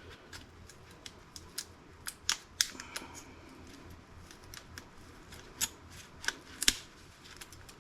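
Irregular light clicks and taps of small laptop circuit boards and parts being handled. There are a couple of dozen sharp ticks, with louder ones between two and three seconds in and again around six to seven seconds.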